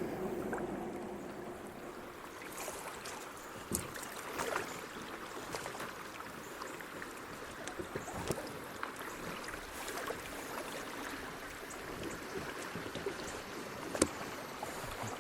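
Kayak paddling on a shallow, rocky creek: steady rush of running water with paddle strokes, broken by a few sharp knocks, the loudest near the end.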